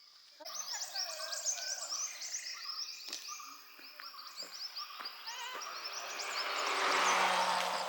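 A dense chorus of many birds chirping and chattering at once, beginning suddenly about half a second in. Toward the end a rushing noise with a low hum swells and fades under the birdsong.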